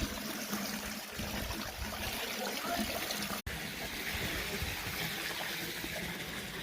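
Water running steadily with a trickling sound, like a small stream. It breaks off for an instant about halfway through.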